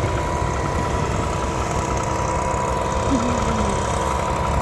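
Tractor engine running steadily at an even speed, a constant low rumble with a steady hum.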